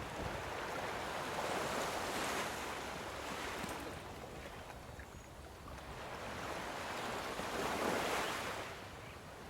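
Wind rushing over the microphone of a moving bicycle. It swells twice, loudest about two seconds in and again near the end.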